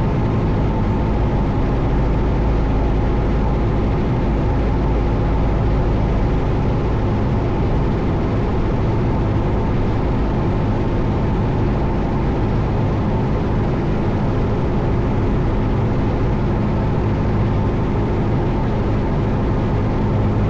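1972 Cessna Skyhawk's four-cylinder piston engine and propeller droning steadily inside the cabin.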